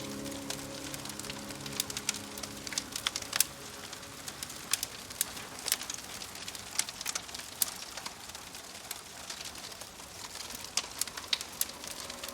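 Rain pattering with a steady soft hiss and scattered sharp crackles from a fireplace fire. Soft ambient music fades out about three seconds in and returns near the end.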